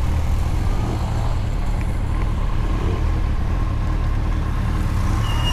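Motorcycle running at a steady speed in traffic: a continuous engine and road rumble, with a brief high tone near the end.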